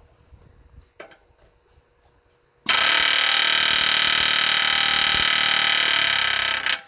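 Long-stroke pneumatic air hammer with a chisel bit driving against a steel truck-frame rivet: a loud, rapid buzzing hammering for about four seconds, starting partway in and stopping abruptly. A light knock comes before it.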